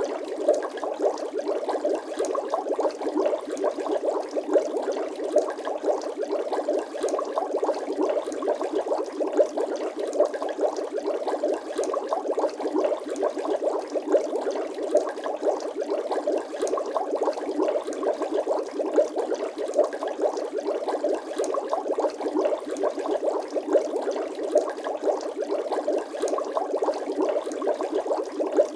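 Bubbling sound effect: a continuous, dense stream of small liquid bubbles popping and gurgling, with no pauses.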